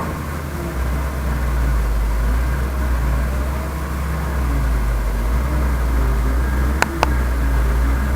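Heavy diesel engine of the earthmoving machinery running steadily with a deep rumble, growing louder about a second in. Two sharp clicks come in quick succession near the end.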